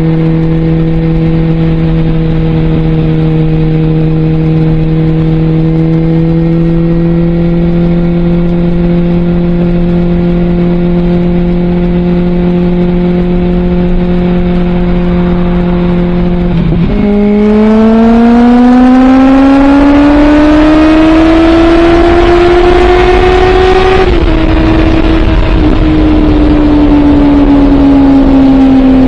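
Suzuki GSX650F inline-four engine through a Scorpion aftermarket exhaust, heard while riding. It holds a steady cruising note, rises slightly about six seconds in, dips briefly, then climbs steadily in pitch as the bike accelerates. About seven seconds later the throttle eases off and the note falls away gradually.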